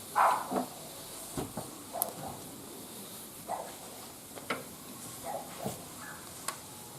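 Wood fire burning in a barbecue grill, crackling with irregular pops over a steady hiss, the loudest crack just after the start.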